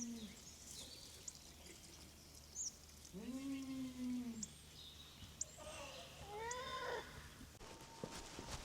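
An animal giving three drawn-out calls: the longest is held level for about a second a few seconds in, and the last is higher, rising and then falling. Short high bird chirps sound in between.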